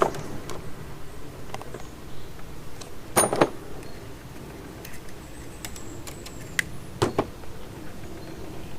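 Sharp clicks and light metallic clinks from handling small hand tools and wiring, with two louder double clicks, one about three seconds in and one about seven seconds in.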